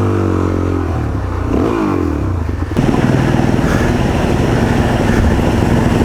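Off-road motorcycle engine running, its revs rising and falling, then a little before halfway the sound switches abruptly to a louder, rougher, steady engine note.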